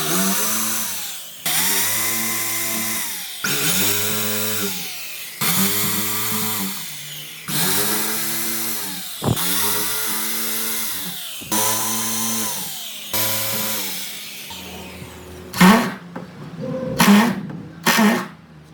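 Electric power tool cutting wood in repeated passes about every two seconds. Each pass starts suddenly, and the motor's pitch dips under the load, then recovers. Near the end come a few short, loud bursts.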